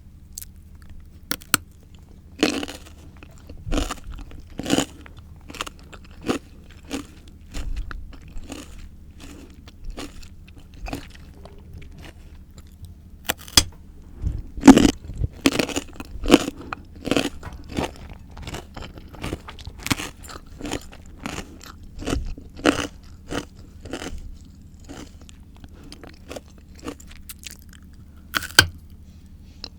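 A person biting and chewing crisp raw fruit and vegetables close to the microphone: a run of sharp, irregular crunches, coming thickest in the middle, over a steady low hum.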